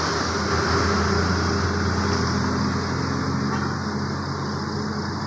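A motor vehicle's engine running steadily with road noise, slowly getting quieter.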